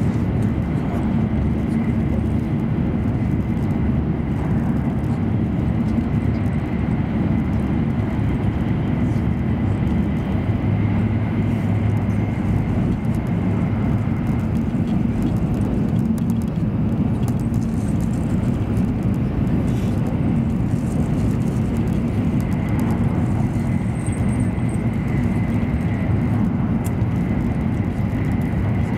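Steady low rumble of an E7 series Shinkansen running at speed, heard inside the passenger cabin, with a faint steady high tone above it.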